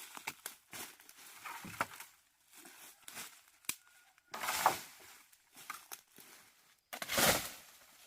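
Crinkling and rustling of something being handled, in a series of irregular short bursts, the loudest about four and a half and seven seconds in.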